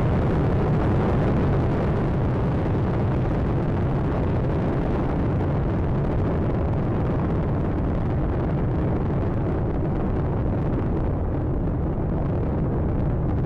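Space Shuttle Atlantis climbing after liftoff: the steady, deep roar of its solid rocket boosters and main engines. The high hiss thins a little toward the end.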